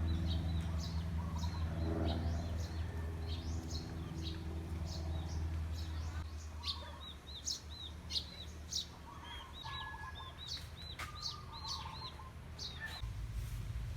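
Small birds chirping over and over in short, high, repeated calls, over a low steady hum that fades out about halfway through.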